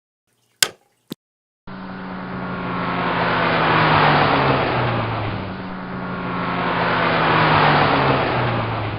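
Two sharp clicks, then a sound-effect motor vehicle engine passing by twice, each pass swelling in loudness as its pitch falls. It starts and cuts off abruptly.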